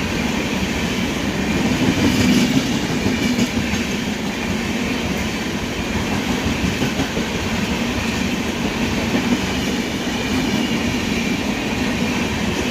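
Train running at speed, a steady rumble and rattle of its wheels on the rails.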